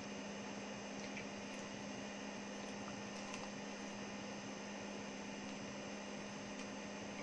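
Steady low hum with a faint hiss of room noise and a few tiny faint clicks.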